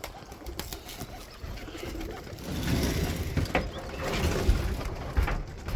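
Domestic pigeons cooing, growing louder from about two and a half seconds in, with a few sharp taps.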